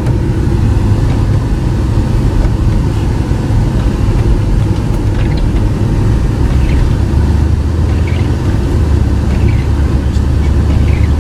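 Car running on the road: a steady low rumble of engine and road noise.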